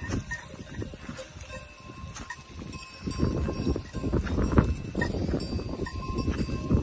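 Bells on a flock of sheep clinking and jangling as the flock moves, getting louder about three seconds in.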